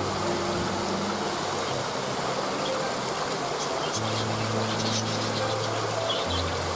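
Waterfall's steady rushing water, with short high bird chirps scattered through the middle. Low held notes sit underneath and change pitch about four seconds in and again near the end.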